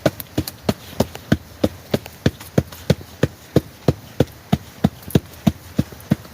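Knife chopping green vegetables on a board: an even run of sharp strokes, about three a second, that stops at the end.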